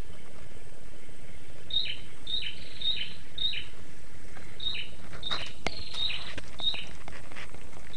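A bird calling a series of short, falling notes, about two a second, starting about two seconds in. Over a steady outdoor background, with a few sharp clicks midway.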